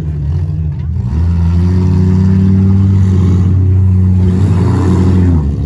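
Race car engine running hard at fairly steady high revs, dropping in level near the end.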